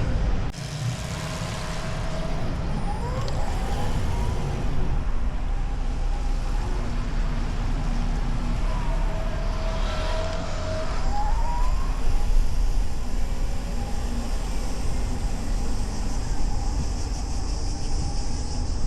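Car driving through city traffic: a steady rumble of road and engine noise, with a siren rising in pitch a few times, about three seconds in and again around ten seconds in.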